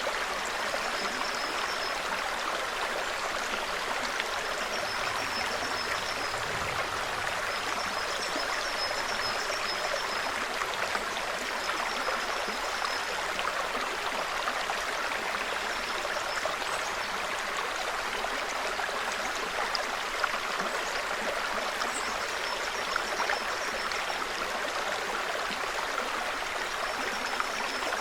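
A small forest stream gurgling and trickling steadily over stones. High, thin bird calls come in short runs every few seconds.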